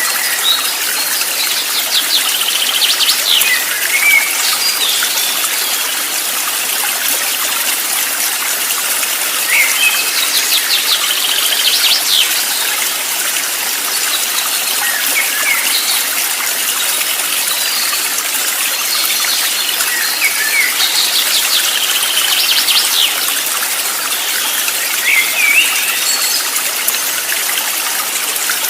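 A flowing stream runs steadily, while a songbird sings a short song of fast trills and quick rising notes, repeated several times.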